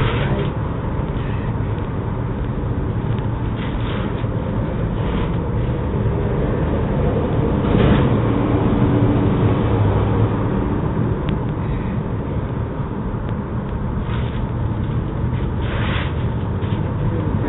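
Steady rain with a low rumble, swelling briefly a few times.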